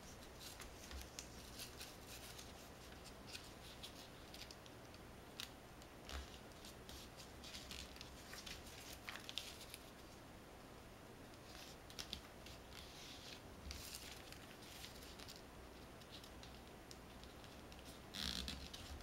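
Origami paper being folded and creased by hand: faint scattered rustles and small ticks of paper, with a slightly louder rustle near the end.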